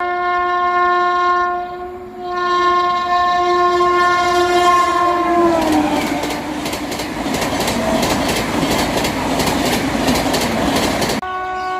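A high-speed express train passing: the locomotive horn sounds, with a short break about two seconds in, and drops in pitch as the engine goes by. The coaches then rush past with a rhythmic clickety-clack of wheels over rail joints. Near the end the sound cuts abruptly to another train horn.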